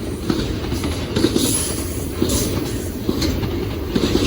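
Norfolk Southern train rolling past, its steel wheels clacking irregularly over rail joints above a steady low rumble.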